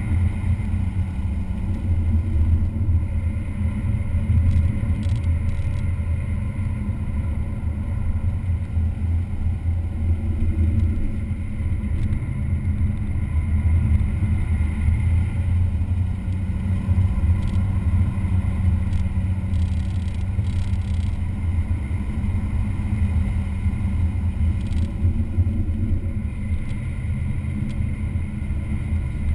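Engine and road noise of a vehicle running at speed on a race track, a continuous low drone that holds fairly steady throughout.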